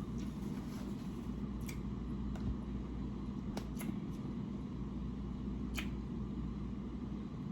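Someone chewing food quietly, with a few faint soft clicks of mouth sounds over a steady low room hum.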